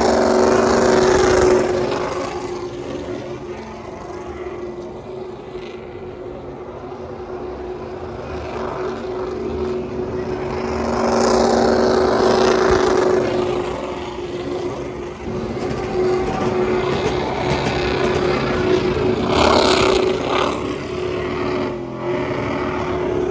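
Motor vehicle engine running with a steady hum, swelling louder three times.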